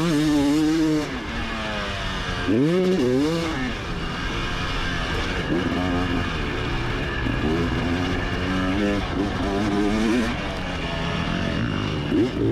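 Motocross bike engine heard from on board during a lap, revving hard and falling back as the throttle is opened and closed: long climbs in pitch near the start and around three seconds in, a run of shorter throttle blips in the middle, and another climb at the end.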